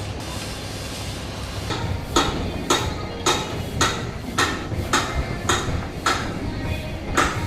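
Hammer blows on metal, about two a second in an even rhythm, starting about two seconds in, over a steady low hum.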